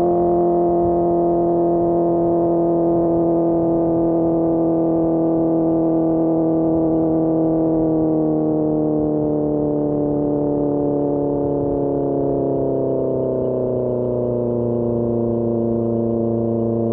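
SRK600's inline-four engine through an Austin Racing GP1R exhaust, holding steady revs in one gear while riding, then winding down slowly over several seconds as the bike eases off.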